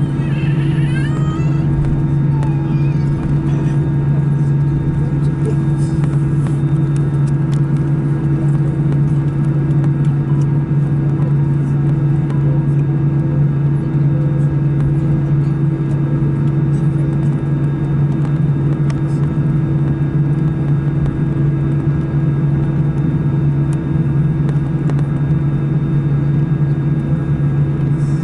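Steady cabin drone inside an Airbus A319-111: the CFM56 engines and the airflow give an unchanging low hum over a rushing noise.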